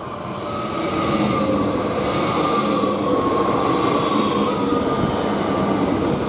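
Electric multiple unit passenger train passing close by. The sound grows over the first second, then holds as a steady rush of wheels on rail, with a humming whine from the traction equipment.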